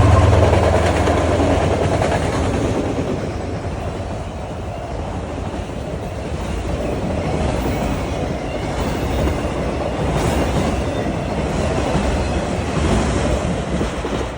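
Train rolling past on the rails, its cars rumbling and clacking steadily. Loudest at the start, where a deep engine hum fades out, then a steady rumble that cuts off sharply at the end.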